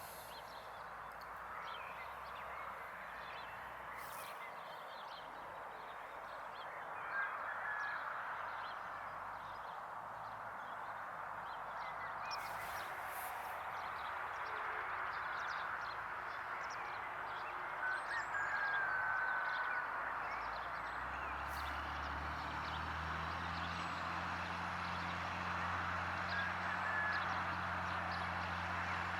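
Tractor engine in the distance with birds calling over the field; the engine hum grows louder about two-thirds of the way in as the tractor comes closer.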